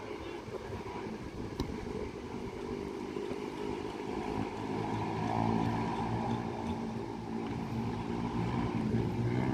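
An engine running steadily, growing somewhat louder about halfway through, with a single sharp knock a little under two seconds in.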